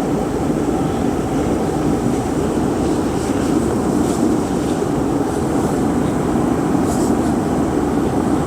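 Steady rush of a van's engine and heater blower running inside the cabin, left on to demist the condensation-covered windows.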